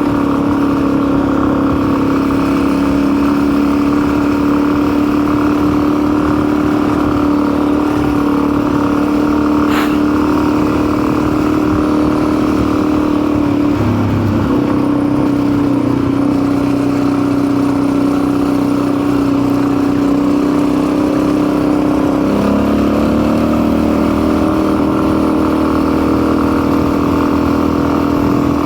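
Custom motorcycle's engine running steadily under way. The engine pitch dips briefly about halfway through, then drops and climbs back again near the end. There is one short click.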